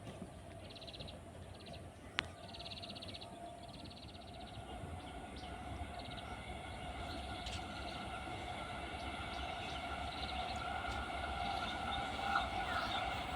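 Electric multiple-unit local train heard at a distance and drawing nearer, a steady whine growing gradually louder. Three short, very rapid trills sound in the first few seconds.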